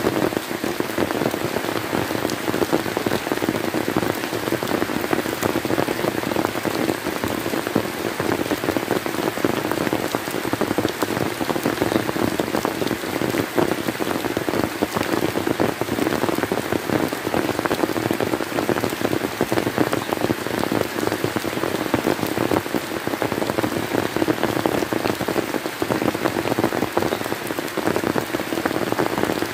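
Steady rain falling, a dense, unbroken stream of drops striking a surface.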